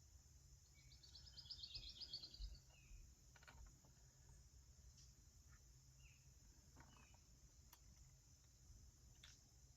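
Near silence, with faint outdoor bird chirps: a quick high trill about a second in, then a few single chirps.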